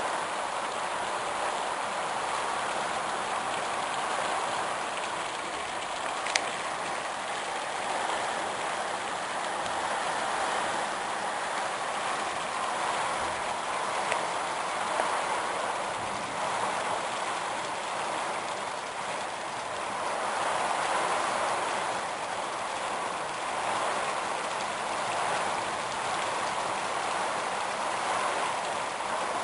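Heavy rain and strong storm wind rushing steadily, swelling in a gust about two-thirds of the way through, with a sharp click about six seconds in.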